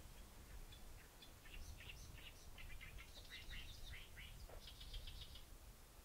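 A songbird singing a quick run of short, high chirps and warbling notes, ending in a fast trill near the end. It is faint.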